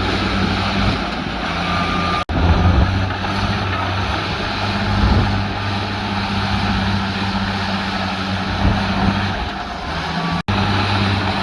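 Heavy diesel earthmoving machinery running under load, a steady deep engine drone with clanking and rumble over it, broken by two brief gaps in the sound.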